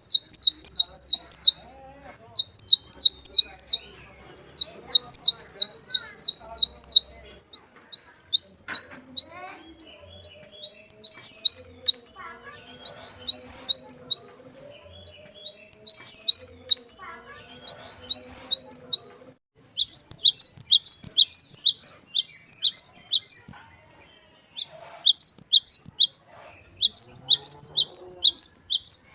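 Cinereous tit (gelatik batu) singing: repeated bouts of rapid, high, clear notes, about five a second, each bout lasting one to two seconds with short pauses between.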